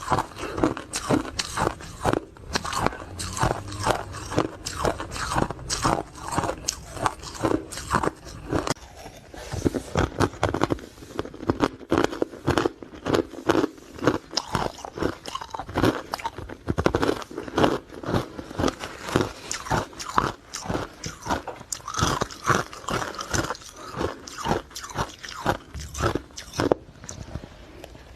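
Ice cubes being bitten and chewed close to the microphone: a steady run of sharp, crackling crunches.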